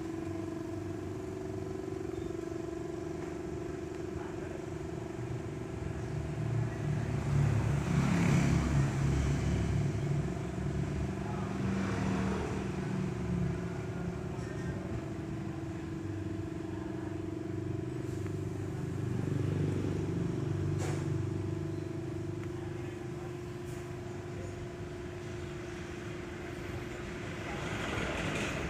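Motor vehicle traffic: a steady engine hum runs underneath, and vehicles pass twice with a swelling, fading rumble, the first about a quarter of the way in and the louder of the two.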